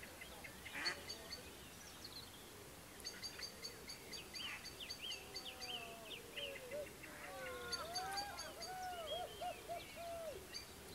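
Birds calling: a few high chirps about four to six seconds in, then a run of lower, arched calls in the last few seconds, over short runs of fast, high pips.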